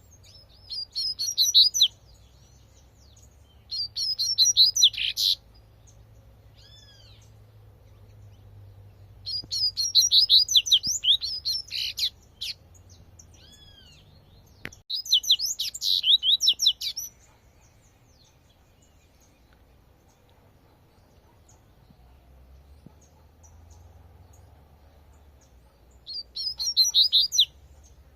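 Double-collared seedeater (coleirinho) singing its 'tui-tui' song: five short bursts of rapid, high twittering notes, each a second or two long. A few single whistled notes come between the bursts.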